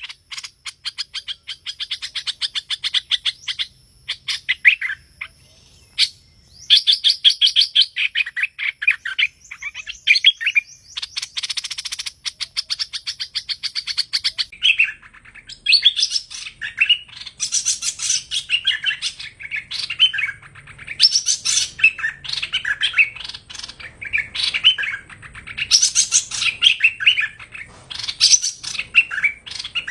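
A hoành hoạch songbird singing: bursts of rapid stuttering chirp trills, which give way about halfway through to busier, more varied song phrases. This is a recorded lure call played to attract the bird for trapping.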